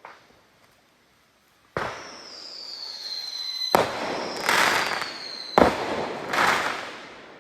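Consumer fireworks going off: a pop about two seconds in, then two whistles each falling in pitch, each ending in a sharp bang followed by a long crackling hiss.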